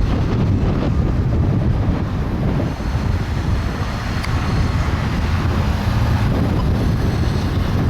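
BNSF double-stack intermodal freight train running by with a steady low rumble, and a faint click about four seconds in.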